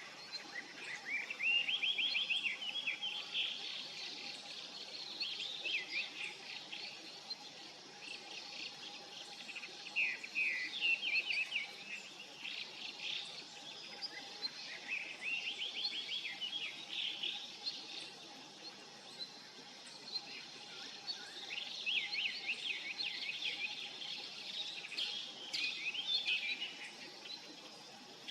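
Small songbirds giving repeated bursts of quick, high chirping calls in runs of several notes, with short gaps between the runs.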